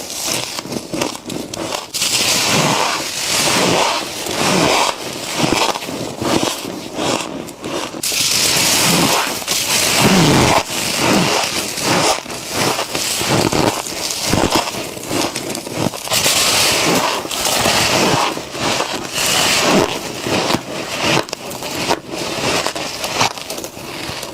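Freezer frost being bitten and chewed close to the microphone: a steady run of crisp, squeaky crunches, bite after bite with no pause.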